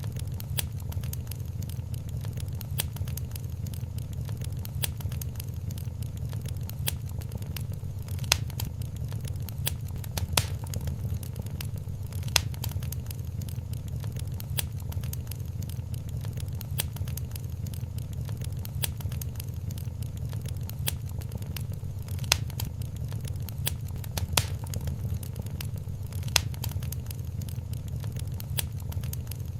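Wood fire crackling in a fireplace: a dense run of small crackles with sharper pops every couple of seconds, over a steady low rumble.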